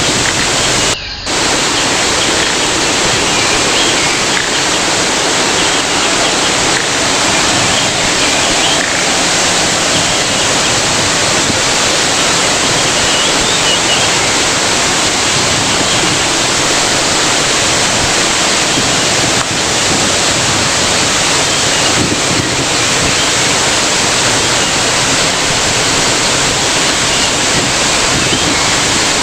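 Waterfall rushing steadily, with a brief dropout about a second in.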